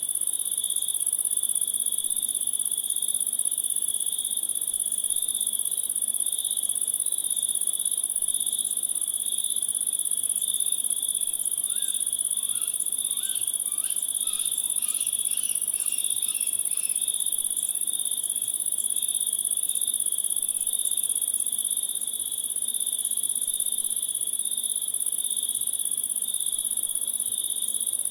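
Crickets chirping in a steady, continuous chorus, with a very high unbroken trill and a lower pulsing trill. About halfway through there is a brief run of short, quick calls.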